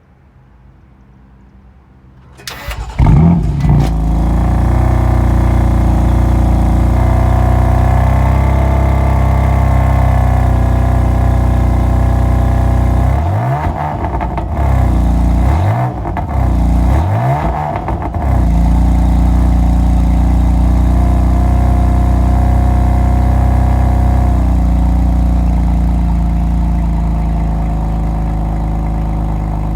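2018 BMW M4's 3.0-litre turbocharged straight-six cold-starting: it cranks and catches about two and a half seconds in and settles into a loud, high cold-start idle. Near the middle the revs swing up and down three times, and near the end the idle drops a little as it settles.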